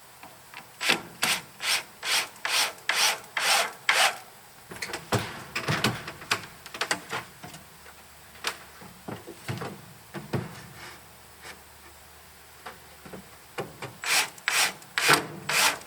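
Wood being scraped or rubbed in quick strokes, about two a second for a few seconds, then scattered scrapes and knocks, then another short run of strokes near the end.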